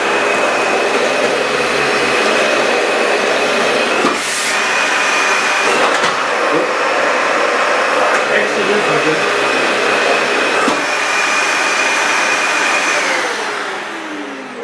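Dyson DC65 upright vacuum cleaner running on a hard floor: a steady rush of suction with a thin high motor whine. Near the end it is switched off and the motor winds down, its pitch falling as the sound fades.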